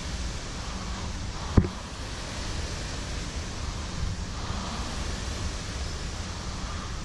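Concept2 rowing machine's air flywheel whooshing, swelling and fading with each slow stroke. One sharp thump about a second and a half in.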